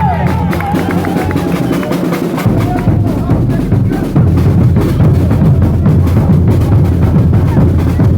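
Festival band music carried by drums and percussion, with a steady driving beat. A deeper bass beat comes in about two and a half seconds in, and the music gets louder about four seconds in.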